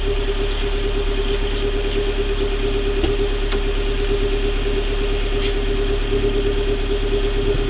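2013 Dodge Dart 1.4 turbo four-cylinder engine idling steadily.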